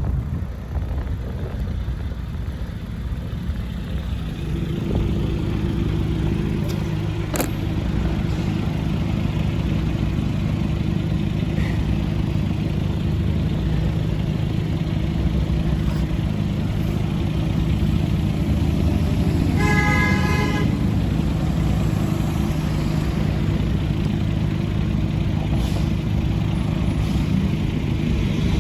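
Street traffic: motor vehicles' engines running with a steady low hum, and about two-thirds of the way through a single car horn toot lasting about a second.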